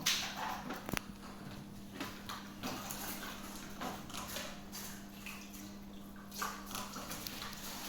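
Steady hum of the pool's filter pump running, with irregular knocks, clicks and scuffs as the vacuum hose is handled and connected to the filter. A sharp click comes about a second in.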